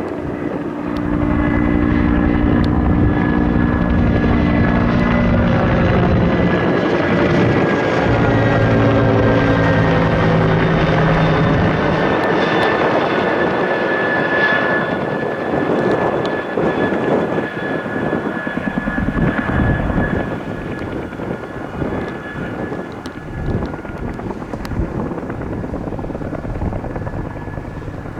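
Low-flying aircraft passing close by, its engine and propeller tones dropping steadily in pitch as it goes past. Afterwards a helicopter's rotor chop comes through as the sound fades.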